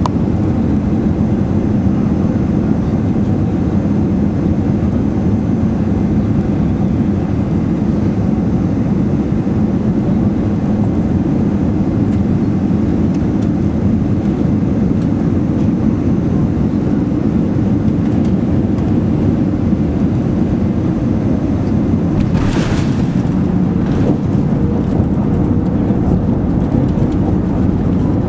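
Steady low rumble inside the cabin of an Airbus A380, with a brief hiss about three-quarters of the way through.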